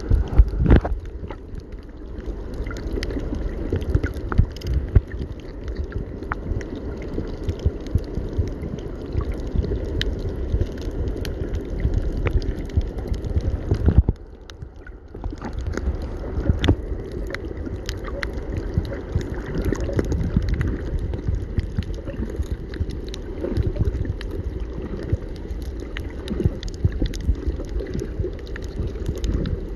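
Water sloshing and gurgling, with frequent knocks and bumps, briefly dropping away about halfway through.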